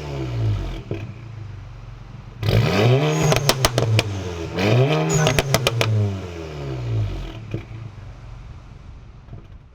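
Mk7 Volkswagen GTI's turbocharged 2.0-litre four-cylinder through an XFORCE Varex valved exhaust, blipped twice from idle: each rev rises and falls back, with pops and crackles from the exhaust as the revs drop. Then it settles to idle and fades out near the end.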